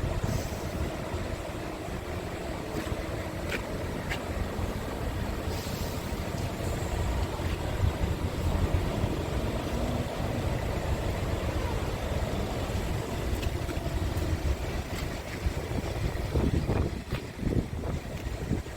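Scania G450 truck's six-cylinder diesel engine running steadily, with a few light clicks over it.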